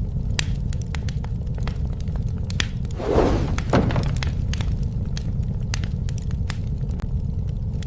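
Wood bonfire crackling with scattered sharp pops over a steady low rumble. About three seconds in, a louder crackling burst ends in one sharp crack.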